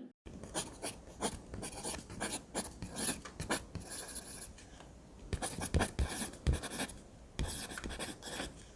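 Irregular scratching and rubbing strokes, short and uneven, with brief pauses between runs of strokes.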